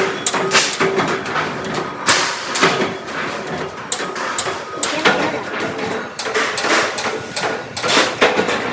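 Workshop noise of metalwork: irregular sharp clanks and knocks, several a second at times, over a steady machine hum.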